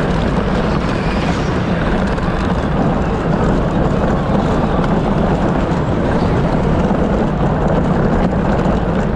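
A Power Wheels ride-on car heard from on board, running steadily at speed: an electric drive motor hum with wheel and track noise.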